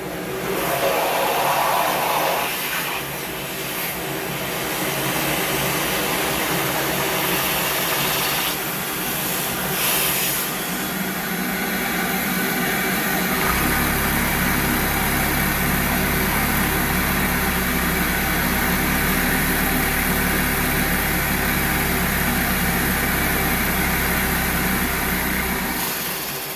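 Vacuum cleaner running steadily, sucking air through a one-cylinder Scotch yoke Lego vacuum engine to drive it. A deeper low hum comes in about halfway through.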